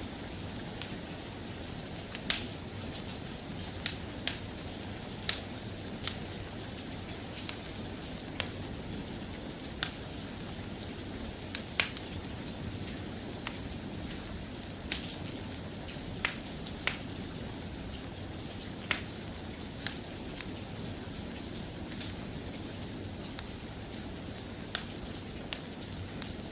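Steady rain ambience with a wood fire crackling, sharp irregular pops about every second or two over the even hiss of rain.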